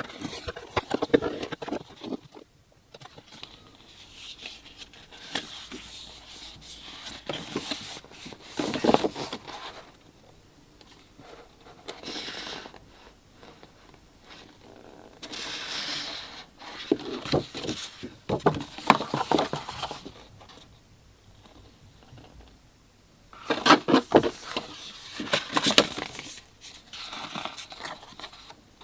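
Hands unpacking and handling packaging: rustling, scraping and tapping in irregular bursts with quiet gaps between.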